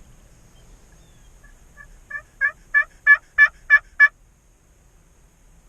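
Turkey yelping: a run of seven evenly spaced, loud yelps, about three a second, growing louder after a couple of faint lead-in notes.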